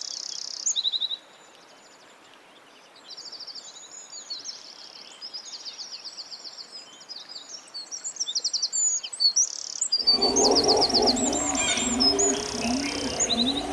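Small songbirds chirping and singing in rapid high trills, with a brief lull near the start. About ten seconds in the sound changes: a pigeon or dove coos in a low repeated phrase under the chirping.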